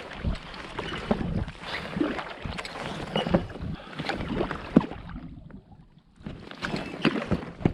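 Paddle strokes from a packraft: water splashing and dripping off the paddle blades, with scattered small knocks. The strokes ease off and go quiet for about a second around the middle, then resume.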